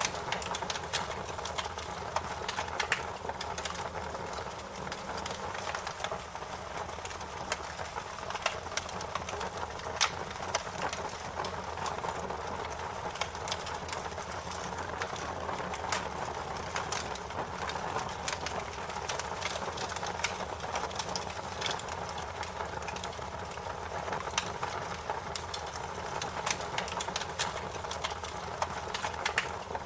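Wood fire crackling: a steady hiss of burning with frequent sharp pops and snaps at irregular intervals.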